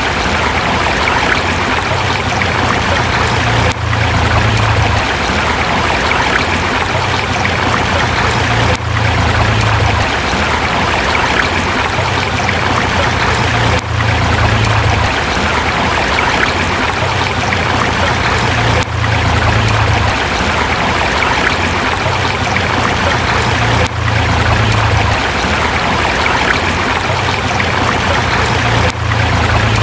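Forest river flowing over rocks: a steady rush of water, with a brief dip in level about every five seconds.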